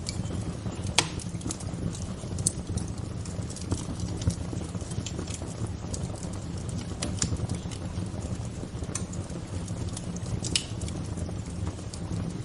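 Wood fire crackling: irregular sharp pops and snaps, one louder pop about a second in, over a steady low rushing noise.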